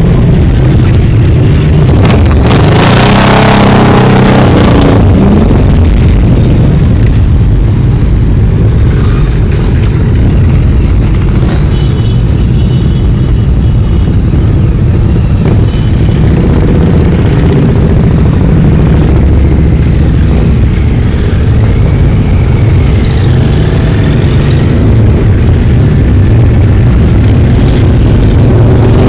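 Many motorcycle engines running loudly and continuously as a procession of bikes rides past, with a louder, harsher burst of noise about three seconds in.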